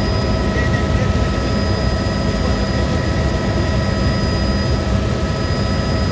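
Helicopter in flight: the rotor and turbine engine running steadily, a constant loud drone with a steady high whine over it.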